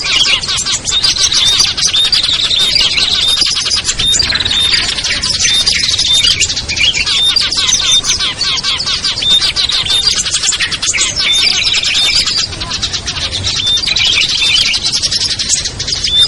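A dense chorus of small songbirds chattering and twittering in fast repeated high notes without a break, a lure recording mixed to draw small wild birds such as prinias and bulbuls.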